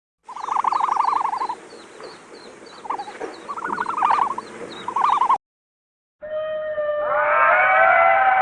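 Animal calls: three pulsed, rattling trills with faint quick chirps above them, cut off suddenly. After a short silence, several overlapping whistling calls sliding up and down in pitch begin.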